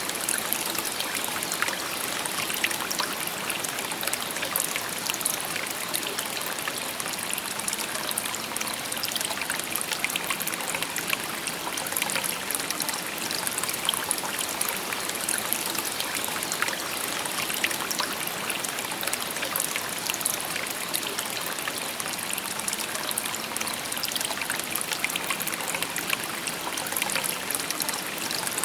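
Shallow river babbling and trickling over stones, a steady even wash of water with many small splashes.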